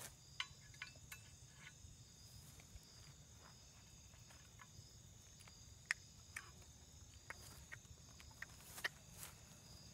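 Near silence: faint outdoor background with a steady high-pitched whine, like insects, and a low rumble, broken by scattered light clicks and taps. The sharpest click comes about six seconds in and another just before nine seconds.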